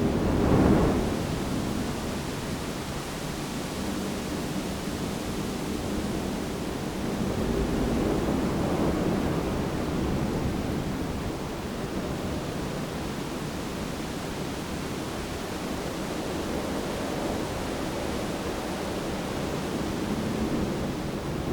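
Wind blowing through a bamboo grove: a steady noise that swells in gusts about a second in, around eight seconds in, and again near the end.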